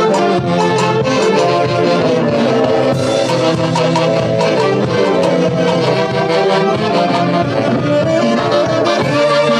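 Live Andean festival orchestra of saxophones and brass playing lively dance music over a steady drum beat.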